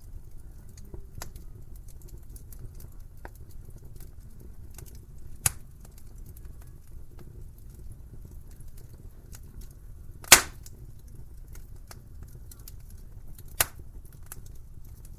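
Wood fire crackling in a fireplace: a low steady rumble of flame under scattered small crackles, with three sharp pops, the loudest just past the middle.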